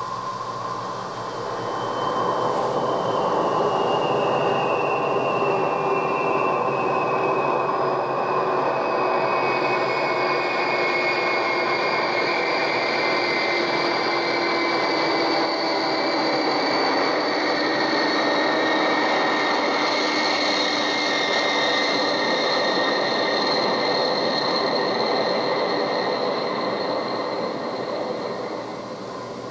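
Recorded sound effect of a train passing, played from a stereo sound-effects cassette on a 1976 Sony TC-520CS: a dense rumble that swells in over about two seconds, holds, and fades out near the end, with high squealing tones sliding slowly down in pitch across it.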